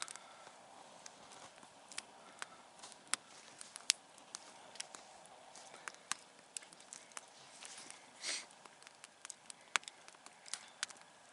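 Wood campfire crackling: irregular sharp pops and snaps over a soft hiss, with a brief louder rush of noise about eight seconds in.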